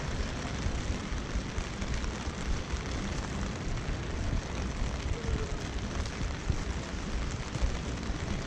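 Steady rain pattering on a clear umbrella held overhead, over a constant low rumble.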